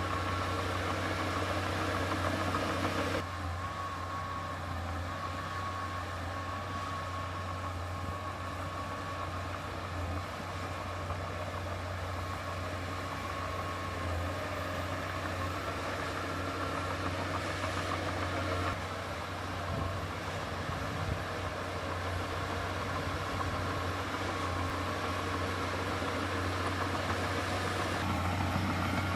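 Diesel engine of heavy earthmoving machinery running steadily with a low hum. The sound drops about three seconds in and picks up again near the end.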